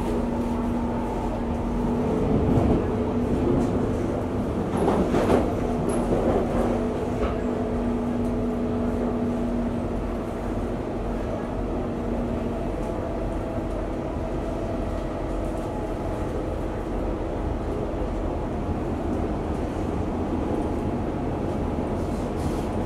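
Singapore MRT train heard from inside the carriage while running: a steady rumble with a humming tone that fades out about halfway through. Two louder surges of noise come a few seconds in.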